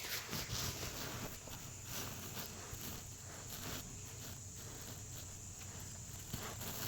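Quiet background: faint scattered light clicks and rustles over a steady low hum and a steady high hiss.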